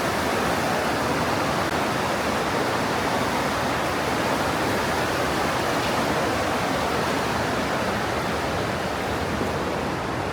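Mountain stream rushing through a narrow rock gorge: a continuous, even rush of fast-flowing water that does not change.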